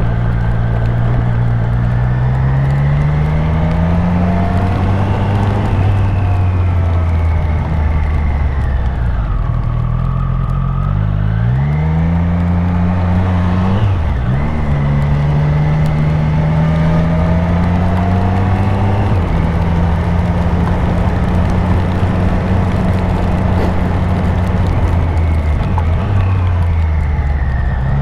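Triumph Street Triple RS's three-cylinder engine pulling as the bike is ridden, its pitch rising and falling with throttle and gear changes: a quick drop and climb at about eleven and fourteen seconds, a step near nineteen and another drop near the end. A steady rushing noise runs beneath it.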